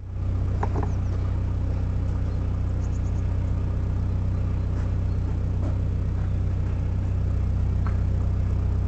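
Vehicle engine idling steadily, a deep even rumble, with a few faint light ticks.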